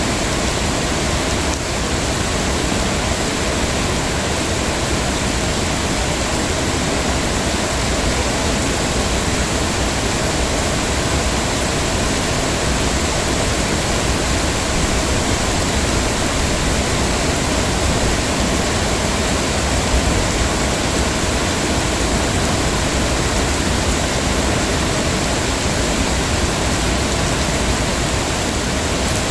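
Heavy rain falling steadily, a dense, even hiss with no separate drops or breaks.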